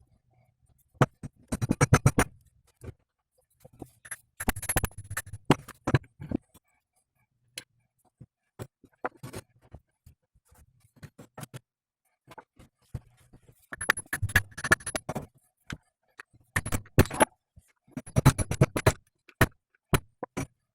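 Metal hand tools and parts clicking and clinking in several quick bursts, with single clicks between them and short quiet gaps, during work on a driveshaft universal joint.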